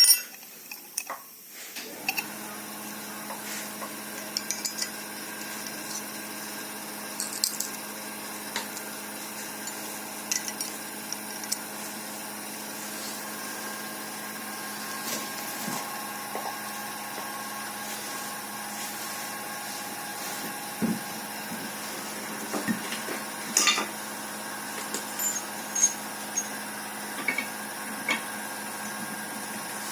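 A small electric motor, likely a power tool, starts about two seconds in and then runs steadily, with scattered metallic clinks and taps of metal parts being handled over it.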